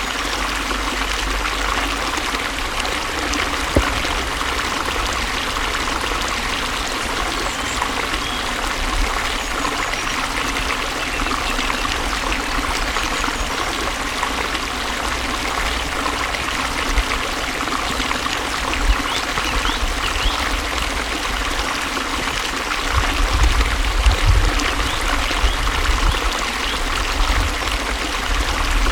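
Flowing water running steadily, with some low rumbling in the last few seconds.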